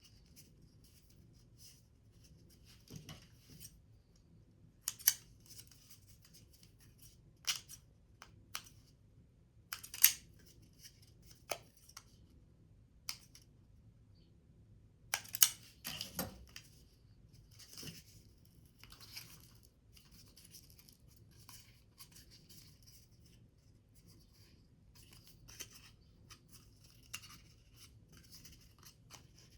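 Scissors snipping paper or card in scattered, irregular cuts, with brief rustles of the paper being handled between them.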